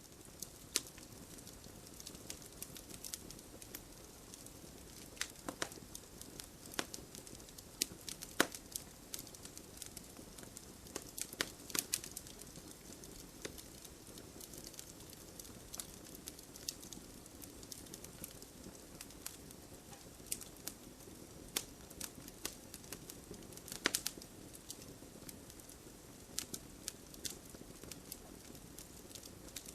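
Wood campfire crackling: a steady low hiss of burning with frequent irregular sharp pops and snaps, a few of them louder than the rest.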